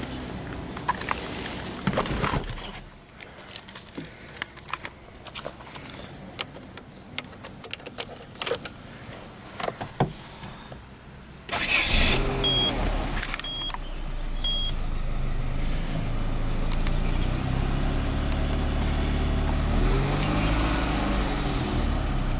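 Keys jangling and clicking in the ignition, then the Peugeot 206's engine cranks and starts about 12 seconds in, with three short beeps from the dashboard, and settles into a steady idle.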